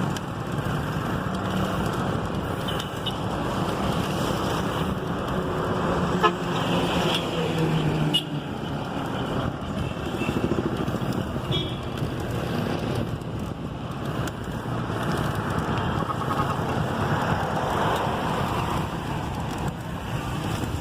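Steady motor-vehicle engine and road noise while riding in traffic, with a few short horn toots.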